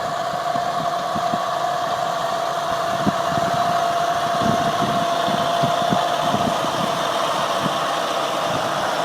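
Engine of a piece of heavy farm machinery running steadily, with a constant whine over irregular low knocking.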